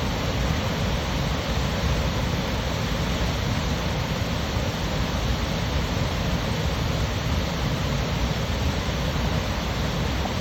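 Water rushing steadily down the rocky cascades of the Hōmei Shijūhachi-taki waterfalls, a loud, even roar without let-up.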